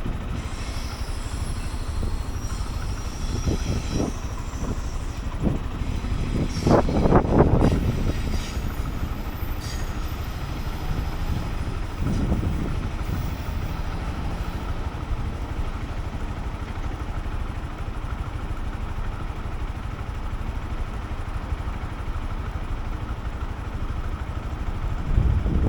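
A Honda CB125F's single-cylinder engine running on the move, mixed with a steady rush of wind and road noise. It grows louder for a moment about seven seconds in.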